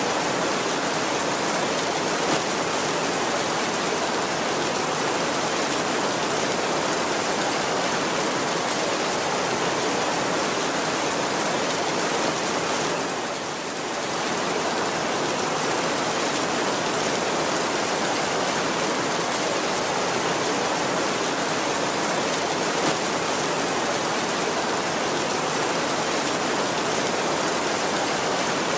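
Heavy rain falling steadily on a tin roof, an even hiss with no thunder heard. The sound dips briefly about halfway through.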